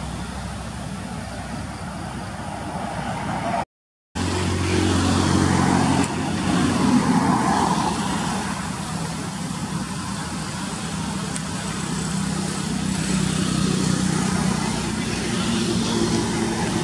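Motor vehicle engine running with road traffic noise. The sound cuts out completely for a split second about four seconds in, then a steady engine hum carries on.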